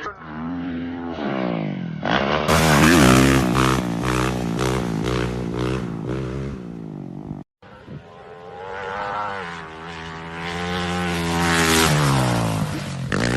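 Motocross dirt bike engines revving, pitch rising and falling with the throttle. The sound cuts out abruptly about seven and a half seconds in and resumes with another stretch of revving.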